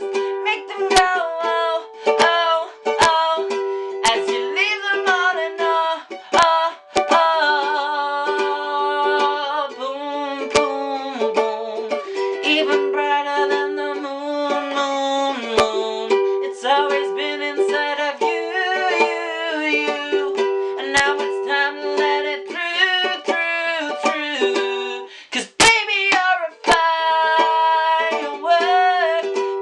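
Ukulele strummed in a steady rhythm, playing chords.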